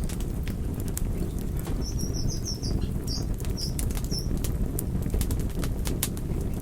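Wood fire burning with a steady low rumble and frequent sharp crackles and pops. About two seconds in, a bird chirps a quick run of short high notes, then a few more up to about four seconds in.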